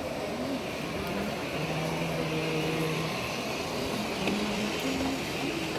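Steady background noise of a large exhibition hall: a constant wash of sound with scattered short held tones from distant voices, with no single close source standing out.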